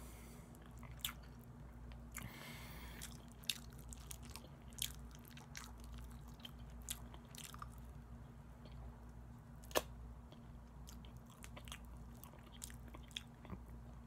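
Close-up chewing of chewy, gelatinous barbecued chicken: wet mouth sounds with scattered sharp clicks, one louder click about ten seconds in. A steady low hum runs underneath.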